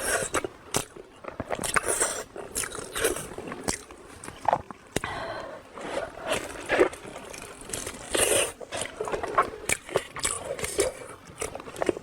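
Close-miked eating: a person biting into and chewing crunchy food, with irregular crisp crunches and bites in quick succession.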